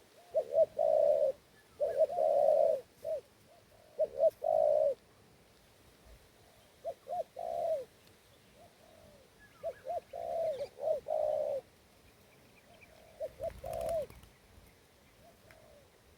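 Spotted dove (tekukur) cooing: repeated phrases of short, low notes, coming in several bouts with pauses between them and growing fainter near the end.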